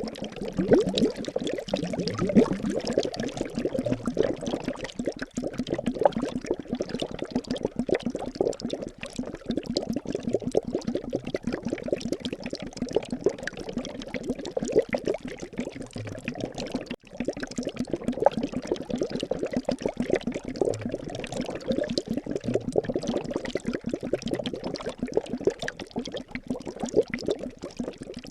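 Liquid bubbling and gurgling steadily, a dense stream of small bubbles popping, with a brief gap about seventeen seconds in.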